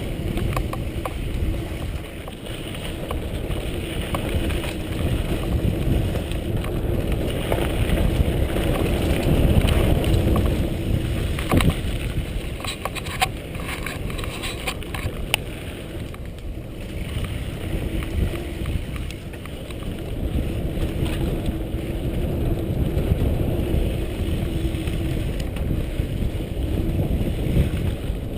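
Mountain bike riding along a dirt trail: wind rushing over the microphone, tyres rumbling on the ground, and the bike rattling with scattered sharp clicks, busiest around the middle.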